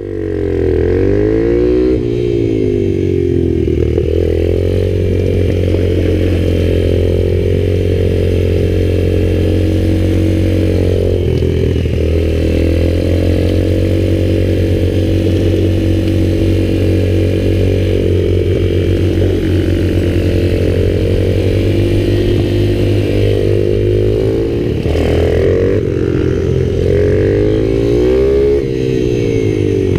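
Mini bike (pit bike) engine running hard, its pitch rising and falling over and over as the rider accelerates and backs off.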